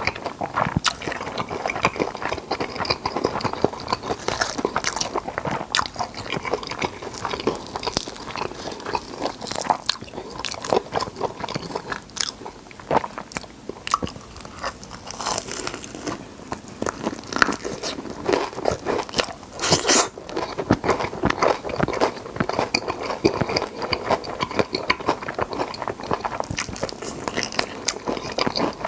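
Close-miked biting and chewing of crispy fried chicken: dense, irregular crunches and crackles of the coating, with wet chewing between them.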